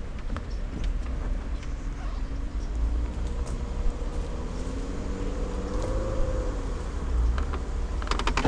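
Jeep Wrangler engine crawling along a wooded trail with a steady low rumble, the revs rising for a few seconds around the middle and then easing off. A few sharp clicks near the end.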